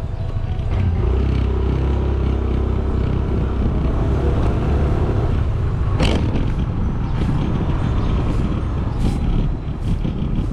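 Motorcycle riding in traffic: engine and low road and wind rumble, swelling about a second in, with a sharp click about six seconds in.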